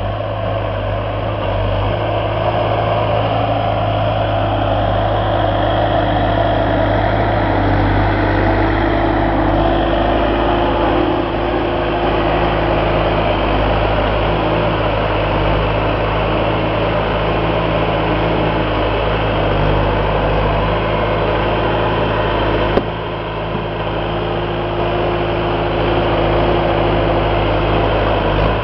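An engine running steadily at an even pace, with one short knock about 23 seconds in.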